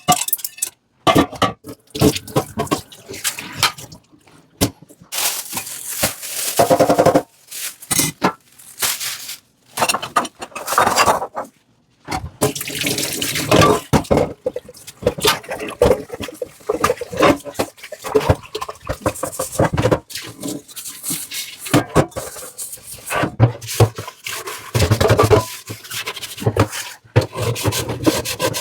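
Dishes being washed by hand at a kitchen sink: water from the tap splashing in stop-start stretches, with scrubbing and short knocks.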